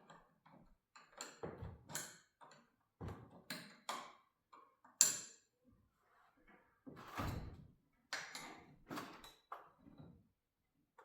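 Irregular metal clanks, knocks and scrapes of wrenches working the bolts on a garage door's torsion spring hardware as they are tightened, the sharpest knock about five seconds in.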